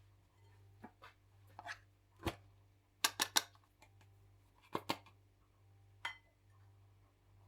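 Light clicks and knocks of kitchen utensils and dishes being handled during food preparation, scattered, with a quick run of three about three seconds in, over a low steady hum.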